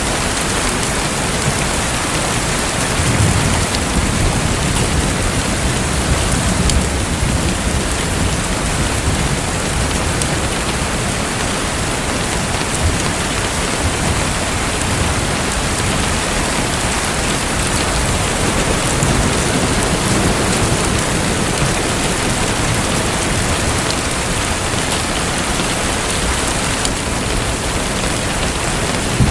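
Steady, dense hiss of falling water, with low rumbles swelling now and then, the strongest near the start and at the very end.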